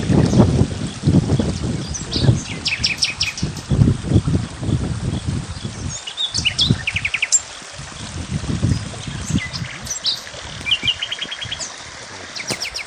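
Small songbirds chirping, with several quick trills about six and eleven seconds in, over a low, uneven rumble that comes and goes.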